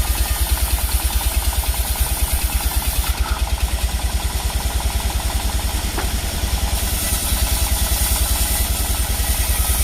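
An engine running steadily at low speed, with a regular low thump about six or seven times a second.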